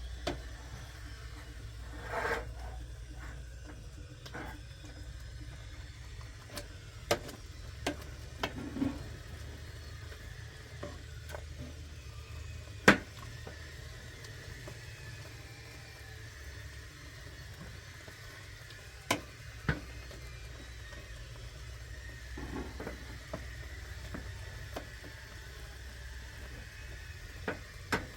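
A steady low hum with scattered sharp clicks and knocks; the loudest knock comes about halfway through.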